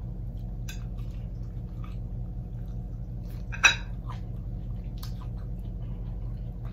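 Close-miked eating of a fried chicken wing: faint wet mouth clicks and smacks over a steady low hum, with one louder bite or mouth sound about three and a half seconds in.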